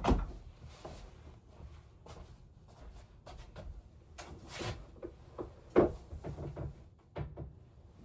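Handling and rummaging noises: scattered knocks, taps and rustles, with one sharper thump just before six seconds in, as things are moved about while a stuffed animal is fetched.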